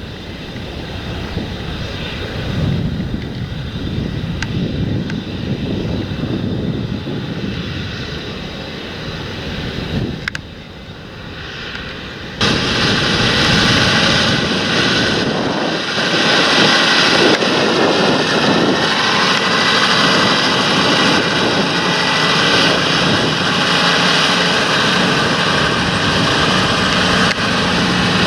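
Large John Deere tractor's diesel engine running steadily under load in the field, with wind noise at first. About twelve seconds in the sound jumps suddenly much louder and closer.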